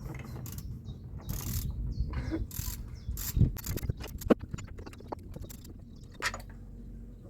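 Hand ratchet wrench clicking in short, irregular strokes on a bolt, with a couple of sharp knocks of metal about the middle.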